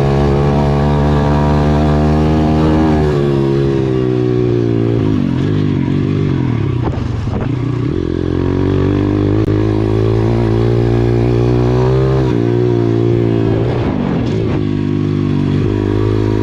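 Single-cylinder four-stroke pit bike engine running loudly under throttle. Its pitch drops and climbs a few times as the throttle is opened and closed, around the middle and again near the end.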